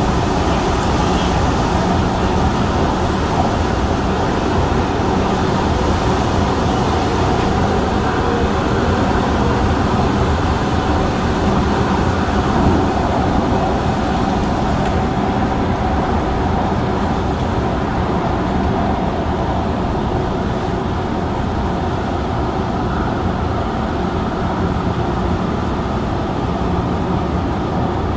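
CAF-built MTR Tung Chung line train running steadily, a continuous rumble of wheels and running gear with a faint steady hum.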